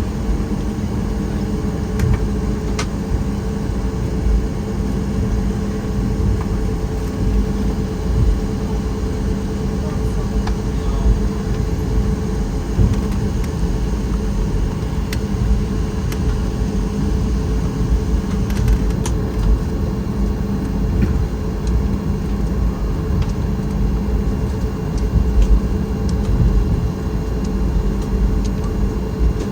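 Cabin noise inside a Boeing 737 MAX 8 with its CFM LEAP-1B engines at low power: a steady low rumble and hum that does not rise, with occasional light knocks and rattles.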